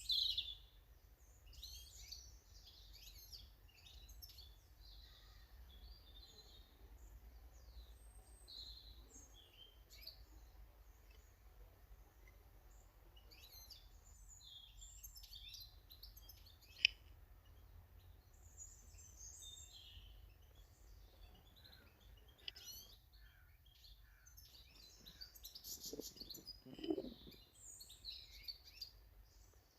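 Small garden birds chirping and calling: many short, high calls scattered throughout, over a faint low rumble. A single sharp click comes about 17 seconds in, and a brief lower-pitched sound near the end.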